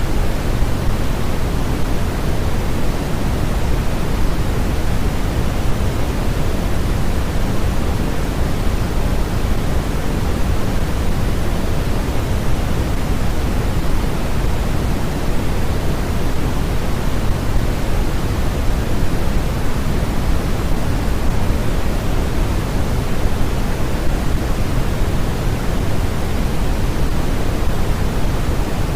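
Steady, unchanging synthetic noise track sold as white noise, heavier in the deep rumble than in the hiss, closer to pink noise.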